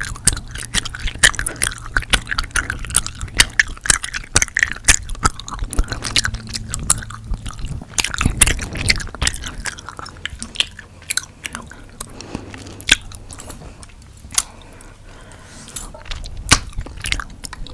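Gum being chewed with the mouth open close to the microphone: a rapid run of wet clicks and smacks that thins out to a few scattered clicks in the last few seconds.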